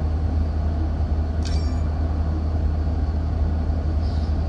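Steady low rumble of a city bus in motion, heard from inside the cabin, with a brief high clatter about a second and a half in.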